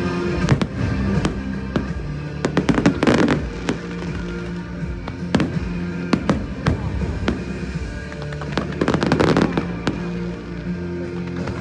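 Fireworks going off, with sharp bangs and two loud bursts of crackling, one about three seconds in and another near nine seconds, over steady music.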